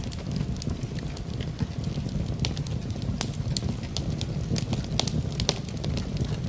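Wood fire in a fireplace crackling: many irregular sharp pops and snaps over a low, steady rumble.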